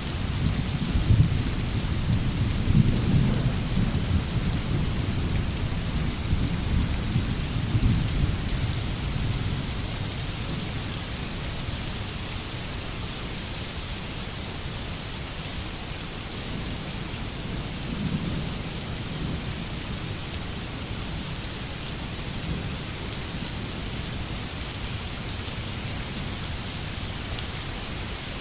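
Steady rain with distant rolling thunder. The rumble is strongest over the first several seconds, dies down, then swells again briefly about two-thirds of the way through.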